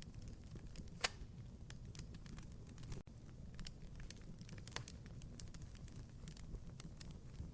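Wood fire crackling in a fireplace: a steady low rumble of burning with frequent small irregular pops and snaps, and one louder pop about a second in.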